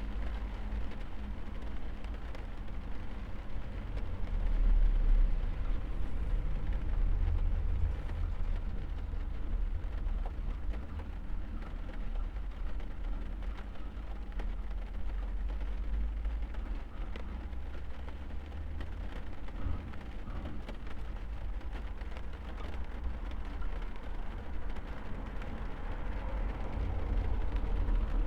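Rain falling on a car, heard from inside the cabin over a steady deep rumble, swelling a little about five seconds in.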